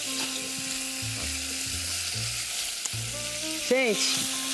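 Diced bacon and calabresa sausage sizzling as they fry in a pot, a steady high hiss.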